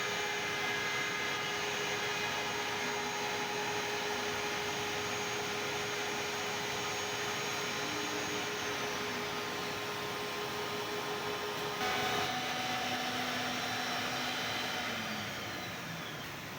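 CNC door-lock drilling machine running: a steady airy motor noise with several whining tones. The pitch shifts about twelve seconds in, and the tones slide downward near the end.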